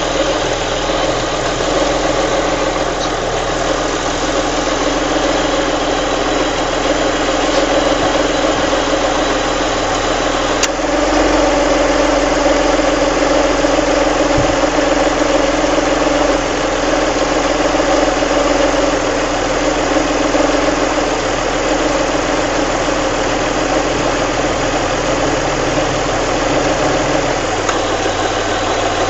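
Alfa Romeo 166 3.0 V6 engine idling steadily, with a weird noise from the cam belt area that the owner is trying to track down. It grows a little louder for about ten seconds from roughly a third of the way in.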